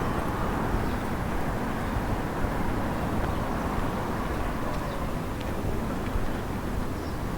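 Outdoor town ambience: a steady low rumble with a few faint clicks scattered through it.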